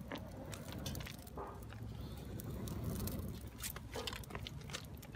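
Small fire of dry twigs and leaves catching under a tin pot, crackling faintly with scattered sharp snaps over a low rumble.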